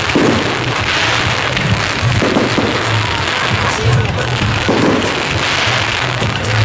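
Fireworks display crackling and popping over loud music with a steady low beat, with crowd voices mixed in.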